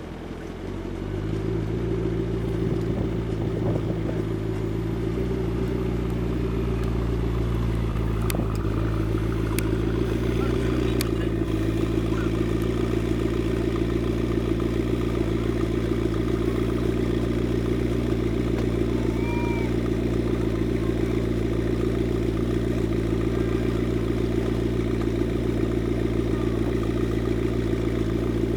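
McLaren sports car engine running at a steady idle, swelling up about a second in and then holding an even, deep note.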